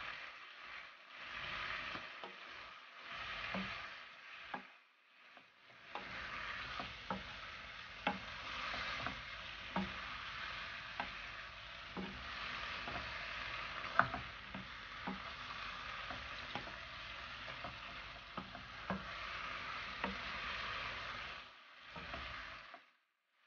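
Pork belly with tomatoes and garlic sizzling in a granite-coated frying pan as a wooden spatula stirs it, with scattered sharp knocks of the spatula against the pan. The sizzle dips briefly about five seconds in.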